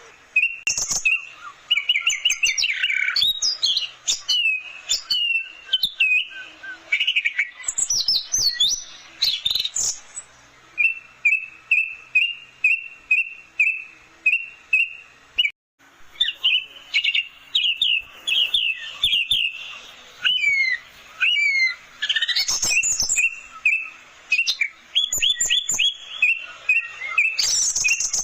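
Orange-headed thrush (anis merah) singing a rapid, varied song of whistled phrases and trills, with a run of evenly repeated notes at about two to three a second in the middle and a brief break a little after halfway.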